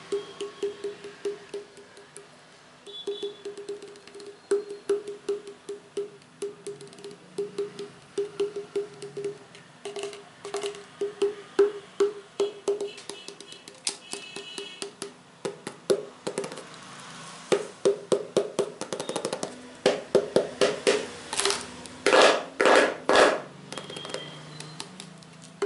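Rapid ASMR tapping on a hard, hollow object: quick runs of taps, each with a short ring at the same pitch. About two-thirds of the way in, the taps give way to louder, longer strokes and knocks.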